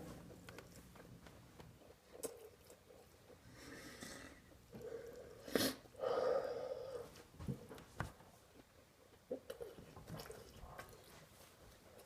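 A person chewing and biting food, with scattered small mouth clicks and a couple of short wordless vocal sounds, one about four seconds in and a longer one around six seconds.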